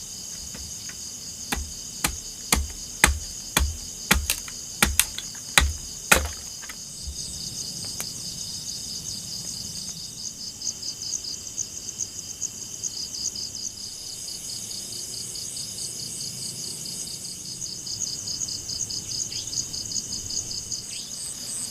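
About a dozen sharp knocks in quick succession over the first six seconds. They give way to steady, high-pitched insect chirring in a fast pulsing rhythm.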